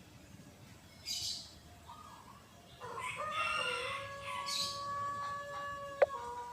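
Rooster crowing: one long, drawn-out call held for about three seconds, with small birds chirping briefly around it. A sharp click comes near the end.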